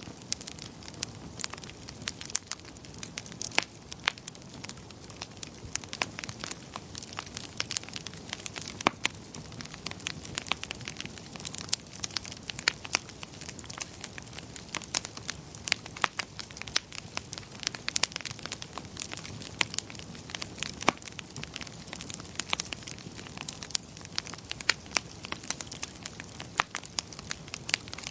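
Wood fire crackling in a fireplace: frequent irregular sharp pops and snaps over a steady low hiss.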